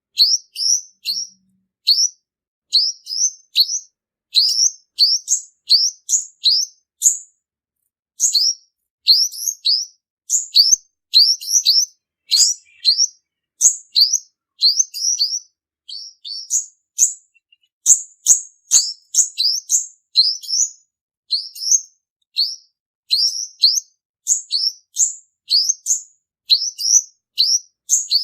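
Male olive-backed sunbird singing: fast runs of short, high, thin chirps, several a second, in bursts with brief pauses. This is the male's song as used for a lure call.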